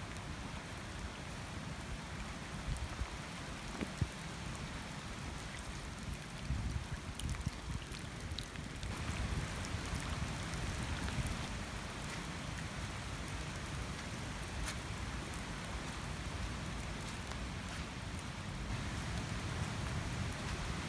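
Steady rain falling in hurricane weather, growing heavier about nine seconds in, with scattered sharp ticks of drops.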